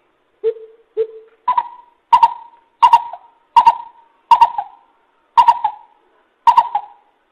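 Coucal calling a series of deep hoots: two lower notes, then seven higher, doubled hoots spaced under a second apart.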